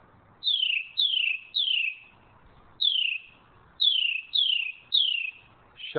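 A bird calling a clear, high, downward-slurred note over and over: seven calls in all, three in quick succession, a single one, then three more.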